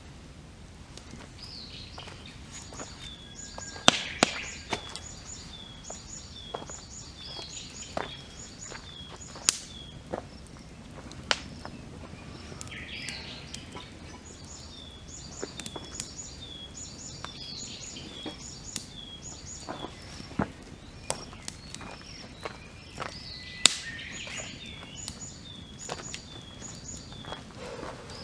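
Wood campfire crackling, with sharp irregular pops, the loudest about 4 seconds in and again near the end. Behind it a songbird sings, repeating a phrase of short high notes over and over.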